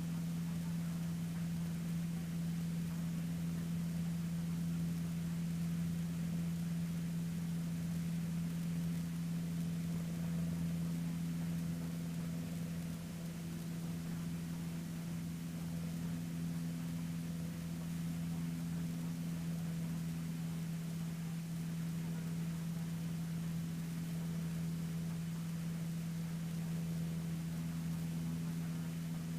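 Cessna 150D's four-cylinder Continental O-200 engine and propeller droning steadily in flight, one low, even pitch held throughout.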